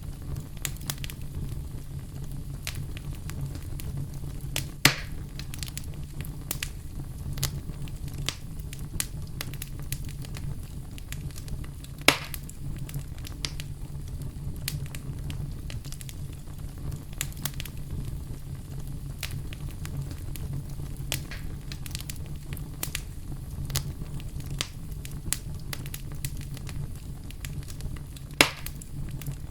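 Campfire burning: a steady low rumble of flames under frequent small crackles, with three louder pops from the burning wood.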